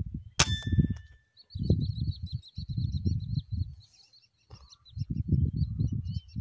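A bird chirps in a quick string of short, high, down-slurred notes, starting about a second in and running on. Under it, low gusts of wind rumble on the microphone, and there is a single sharp click near the start.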